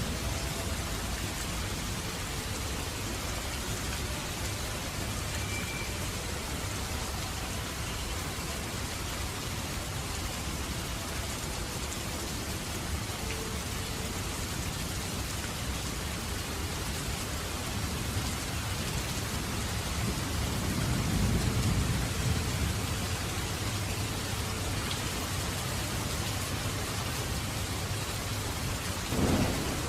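Heavy rain falling steadily, an even dense hiss of raindrops. A low rumble of thunder swells about two-thirds of the way through, and a short, louder thunder crack comes near the end.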